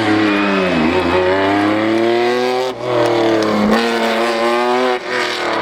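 Rally car engine revving hard as the car accelerates: its pitch climbs, then breaks off and picks up lower at each of two or three gear changes.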